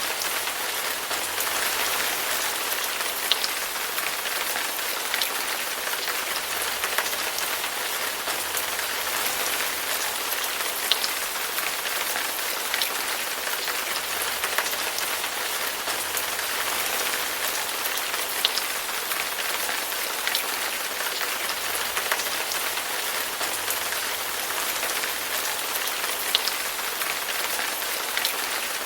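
Steady rain falling on a surface: a dense, even hiss with a few louder single drops ticking every several seconds.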